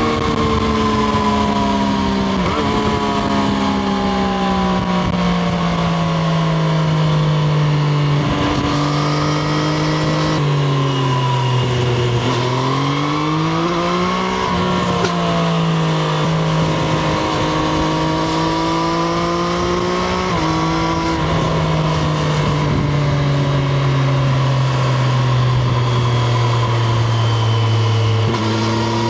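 Triumph Street Triple RS's 765 cc inline-three engine running under way, heard onboard: its pitch eases up and down with the throttle, steps abruptly a few times as gears change, and climbs in one rev-up about halfway through.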